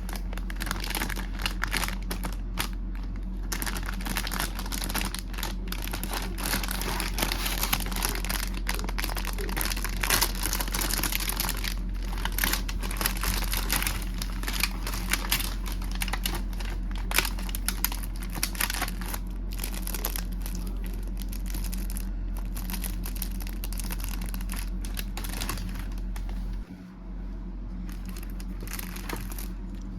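Plastic snack packaging crinkling and tearing as it is handled and opened, with many sharp crackles, over a steady low hum.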